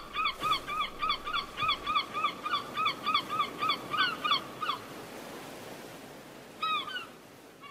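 A bird calling in a rapid series of identical rising-then-falling notes, about four a second, that stops about five seconds in. Two more calls come near the end, over a steady outdoor background hiss.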